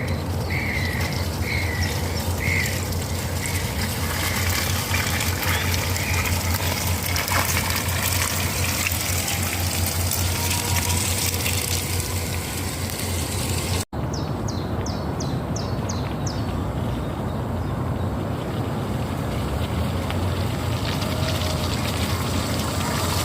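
Magic Mobility Extreme X8 four-wheel-drive electric powerchair running over wet, sticky ground, its motors making a steady low hum under the noise of the tyres on the mud. A bird calls a few times near the start, and a quick series of about six high chirps comes about two-thirds of the way through.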